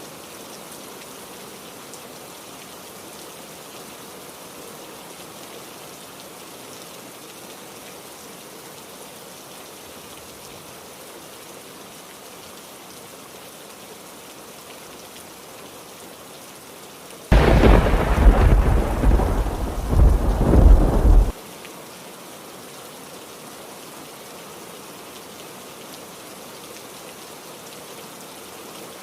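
Steady heavy rain, with one loud thunderclap about two-thirds of the way through that starts suddenly, rolls on for about four seconds and cuts off abruptly.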